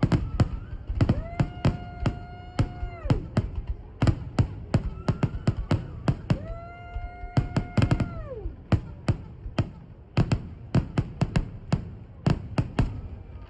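Fireworks exploding in a rapid barrage of sharp bangs, several a second. Twice a long held tone of about two seconds rises above the bangs and drops in pitch as it ends.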